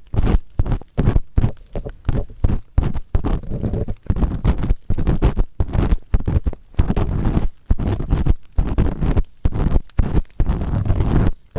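Close-up ear-cleaning strokes scraping inside the ear of a 3Dio binaural microphone, with firm, scratchy 'gori-gori' strokes repeating about two to three times a second and a deep rumble from contact with the mic.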